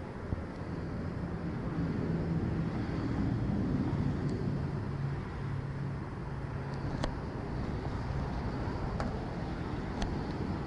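Vehicle engine running with road noise, swelling over the first few seconds, with a few sharp clicks in the second half.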